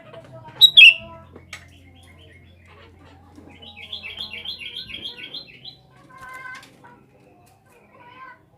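Sooty-headed bulbul calling: a loud, sharp note falling in pitch about a second in, then a rapid run of chattering notes, about five a second, for some two seconds, and a few shorter calls near the end.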